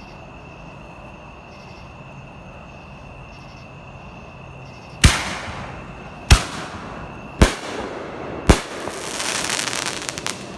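Four loud firework bangs about a second apart, starting halfway through, each trailing off in echo, followed by a burst of crackling. These are consumer fireworks going off after being lit.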